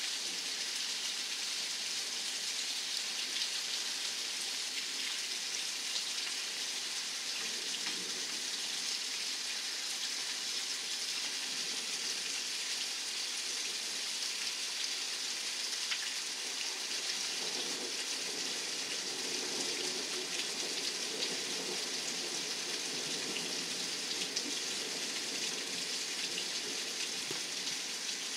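Steady heavy rain falling and splashing on the pavement during a thunderstorm's calm spell, an even hiss with faint drip ticks through it.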